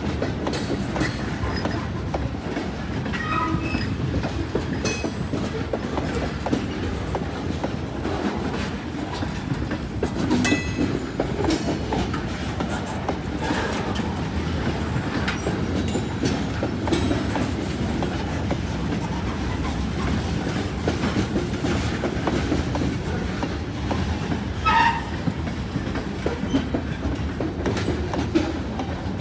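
Freight train rolling past, its wheels clicking and knocking over rail joints above a steady rumble, with a few brief high squeaks.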